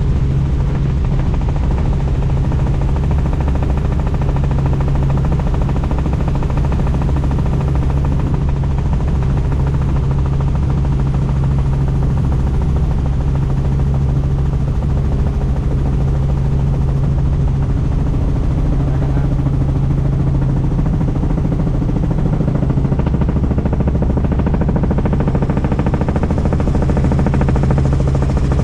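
Helicopter in flight, heard on board a doors-off cabin: steady rotor chop and engine hum, unchanging throughout.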